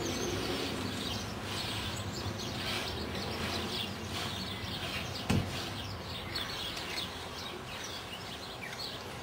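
Small birds chirping and twittering over steady outdoor background noise, with a single dull thud about five seconds in.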